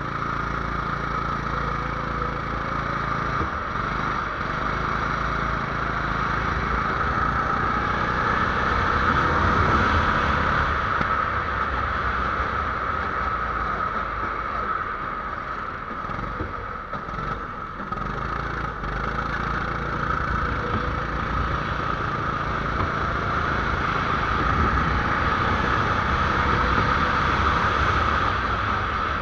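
A 270cc engine running continuously under load, swelling louder about ten seconds in and again near the end.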